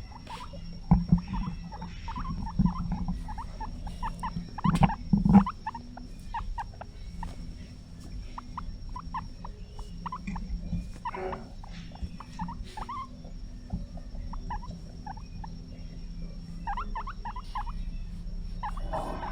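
Guinea pig squeaking in many short, repeated calls. A few loud knocks come about a second in and again around five seconds.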